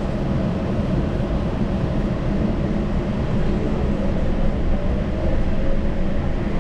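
Yurikamome rubber-tyred automated guideway train running, heard from inside the front of the car: a steady rumble of tyres on the guideway with a faint motor whine that climbs slightly.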